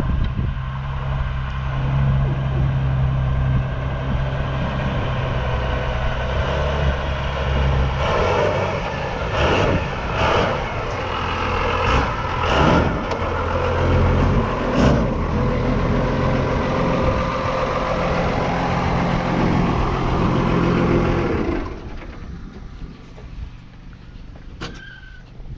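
Cummins diesel engine of a monster truck running under load as the truck is driven, its engine speed rising and falling, with several sharp knocks in the middle. The engine sound drops away suddenly about three-quarters of the way through.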